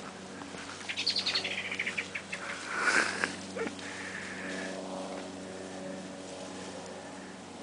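A small bird sings a quick trill of notes that falls in pitch, followed about three seconds in by a louder, harsher sound. A steady low hum, like a distant engine, runs underneath.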